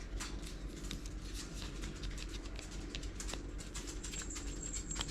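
Small plastic miniature parts being handled and pressed into place by hand: many light, irregular clicks and taps, over a faint steady hum.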